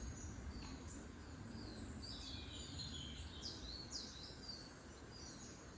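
Faint birdsong: several short chirps and whistled notes from about two seconds in, over a steady low background rumble.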